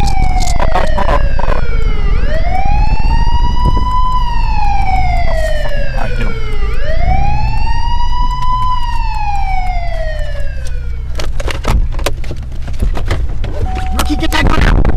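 A police-style wail siren, rising quickly and falling slowly about every four and a half seconds, stops about eleven seconds in. A car's steady engine and road rumble runs underneath, heard from inside the cabin, with a few knocks near the start and after the siren stops.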